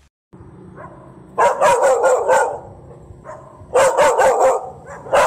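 A dog barking in two quick runs of several barks each, the first about a second and a half in and the second near four seconds, with one more bark at the end.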